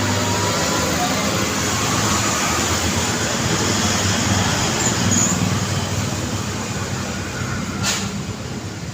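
Steady road traffic: cars and motorbikes passing on a busy road, with a short sharp click near the end.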